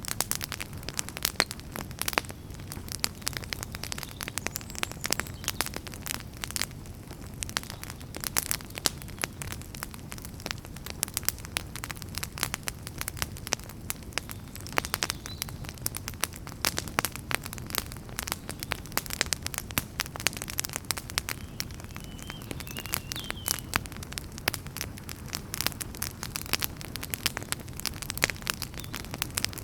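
Wood fire in a fireplace crackling: dense, irregular pops and snaps over a steady low rumble of the burning flames.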